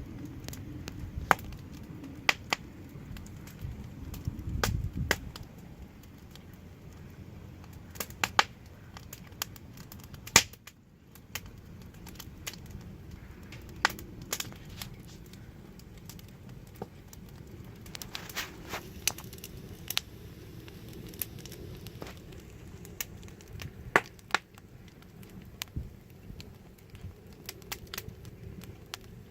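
Wood fire burning, crackling with irregular sharp pops and snaps over a low rumble of flames.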